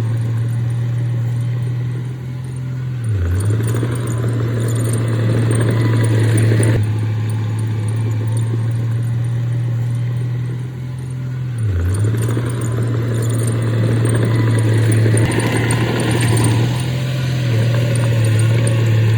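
Heavy earthmoving diesel engine running under load, with a steady deep hum. The hum dips briefly twice, about three seconds in and again near twelve seconds, and each dip is followed by several seconds of louder, rougher working noise.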